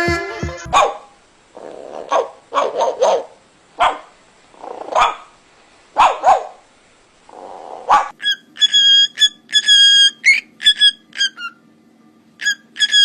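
A dog barking in short single barks and double barks for several seconds. About eight seconds in it gives way to rapid, high-pitched whistling chirps over a low steady hum.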